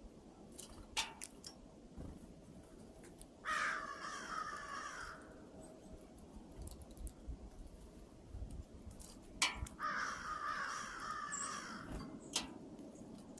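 A bird giving two harsh, raspy calls, each lasting about a second and a half and coming about six seconds apart, with a few sharp clicks in between.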